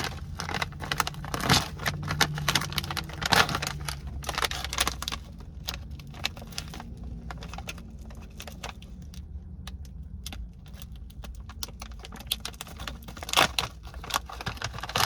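Plastic snack bag of pretzels being handled and opened: crinkling and crackling of the packaging, busiest in the first few seconds, with a sharper burst of crackle near the end.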